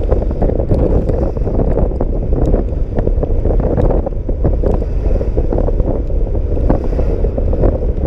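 Wind rushing over a microphone on a moving scooter ridden in heavy rain: a loud, steady low rumble with scattered small ticks.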